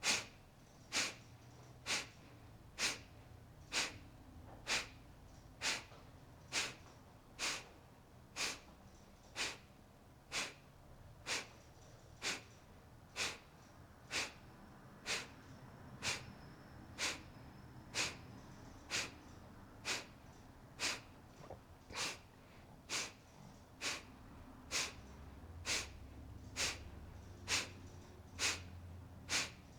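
Kapalabhati (breath of fire) breathing: short, forceful exhalations through the nose, repeated at an even pace of about one a second.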